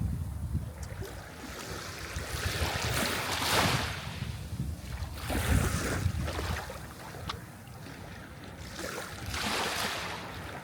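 Sea surf: waves breaking and washing in, three swells of hiss a few seconds apart over a steady low rumble.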